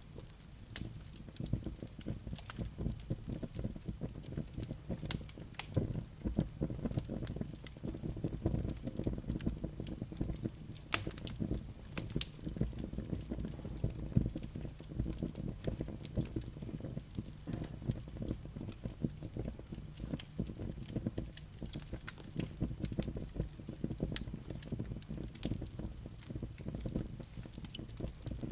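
Firewood burning in a fireplace: a steady low rumble of flames with frequent sharp crackles and pops from the logs and embers, a couple of louder snaps near the middle.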